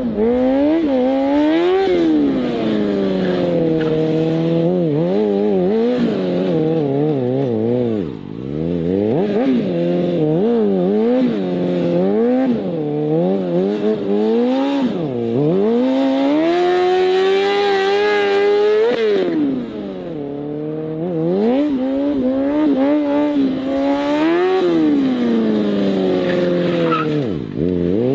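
Superbike engine revving up and down again and again, its pitch climbing and dropping every second or two, with a longer high-revving stretch about two-thirds of the way through.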